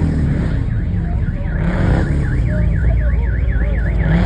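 Electronic siren warbling, its pitch swinging up and down about four times a second, starting about a second in, over the low rumble of engines.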